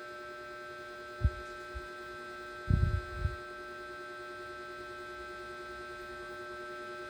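Steady electrical hum, with a single low thump about a second in and a short cluster of low bumps around three seconds in.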